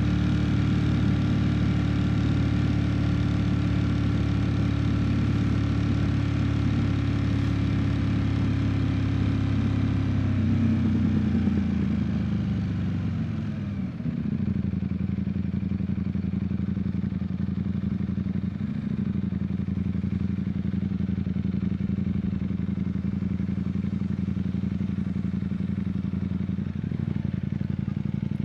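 Ducati Streetfighter V4 S's 1103 cc V4 engine running steadily under way, then its pitch falls over about three seconds as the bike slows, settling into a steady lower note from about halfway through.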